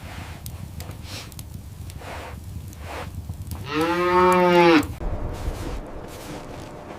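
A cow moos once, a single call of about a second whose pitch arches up and then falls away.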